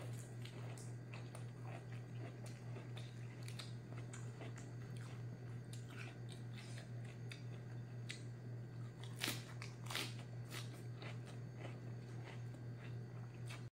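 Close-up chewing and crisp crunching of raw lettuce leaves eaten by hand with spicy stir-fried young jackfruit. The crunches come irregularly, with the two loudest about two-thirds of the way through, over a steady low hum.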